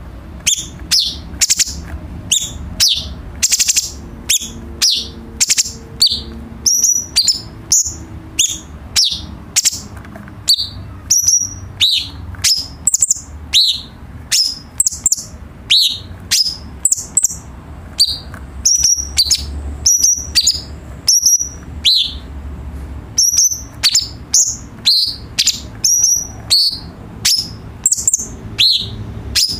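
Cucak cungkok singing: a continuous run of short, sharp, high notes, about two a second, many of them sweeping downward, over a low steady hum.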